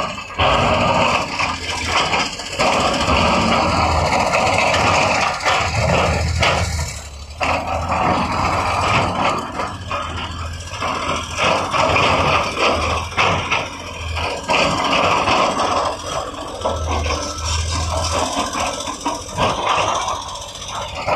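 Heavy construction machinery at work: a diesel engine running, with a lot of irregular clattering and scraping over it.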